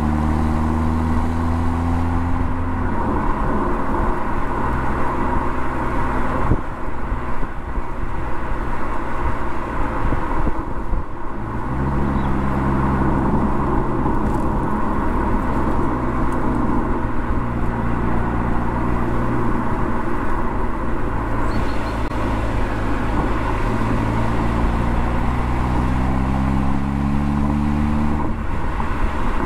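Mercedes-AMG CLA45's turbocharged four-cylinder engine and exhaust on the move: the engine note climbs in pitch under acceleration, fades under tyre and road noise for several seconds, then holds steady and climbs again before dropping suddenly near the end as it changes gear.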